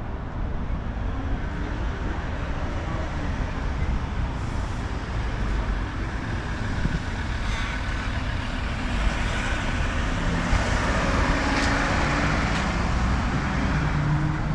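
Road traffic noise with a steady low rumble of wind on the microphone; a passing vehicle swells louder from about ten seconds in.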